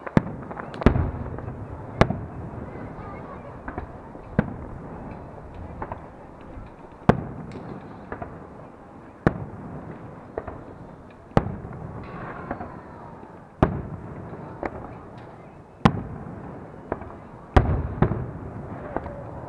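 Aerial fireworks shells bursting one after another, about one or two sharp bangs a second with some gaps, each followed by a low rolling rumble.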